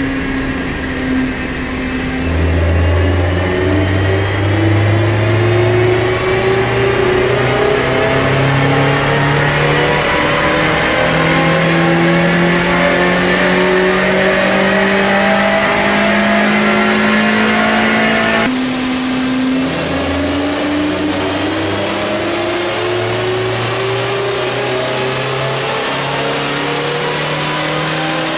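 A stock 2001 Mazda Miata's 1.8-litre four-cylinder engine is run under load on a chassis dyno, its pitch rising steadily through a long full-throttle pull. The sound cuts off abruptly about two-thirds of the way through, and a second pull begins, again climbing in pitch.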